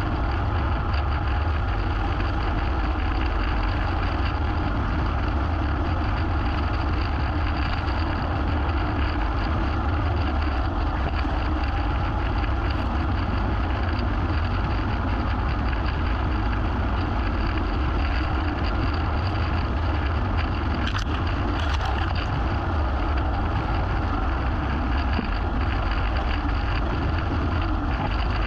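Small petrol engine of lawn equipment running steadily at a constant speed, with a strong low hum and no change in pitch.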